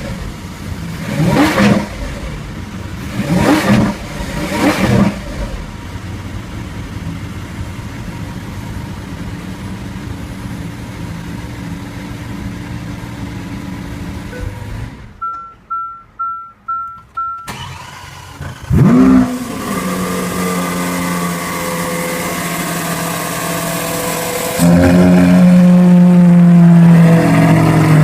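Lamborghini Aventador's 6.5-litre V12 revved in four quick blips, then settling to a steady idle. About fifteen seconds in the engine sound drops away while a chime beeps five times. Near 19 s it flares up again in one quick rev and idles, then from about 25 s it holds a louder, higher engine speed.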